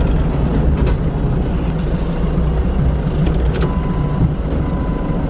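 Forklift engine running steadily under a loud low rumble, with a couple of sharp metallic knocks from the load being handled.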